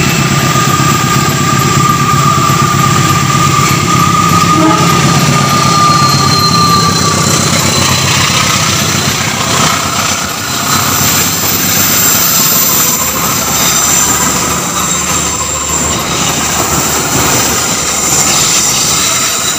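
A diesel-hauled passenger train passing close by on a tight curve. For the first seven seconds or so the locomotive's engine runs past with a high steady squeal from the wheels on the curve. After that the coaches roll by, wheels rumbling and clicking over the rail joints.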